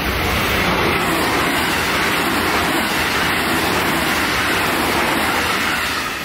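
Electric passenger train passing close by at speed: a steady, loud rush of wheel and rail noise that fades off near the end.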